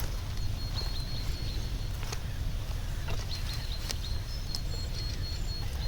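Outdoor ambience: a steady low rumble, a thin high-pitched note that comes and goes, and a few scattered sharp clicks.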